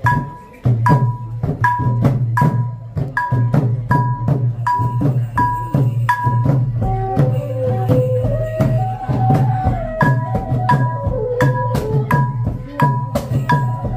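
Khmer chhay-yam folk ensemble playing: a steady beat of drum strokes and ringing metal strikes, roughly one and a half a second. A melody line joins about halfway through.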